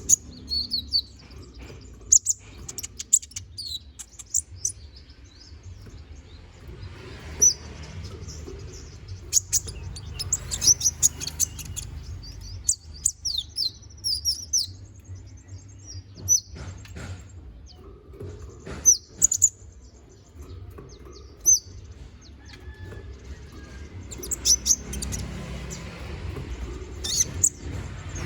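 A konin (kolibri ninja) sunbird singing in quick bursts of short, high, sharp chirps and twittering trills, with short pauses between phrases. It is in full, energetic song.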